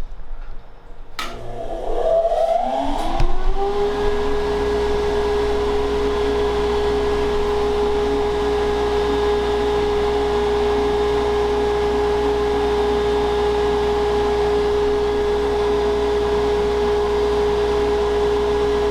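Electric shop machine switched on with a clunk about a second in; its motor spins up with a rising whine over a few seconds, then runs steadily at full speed with a constant whine and hum.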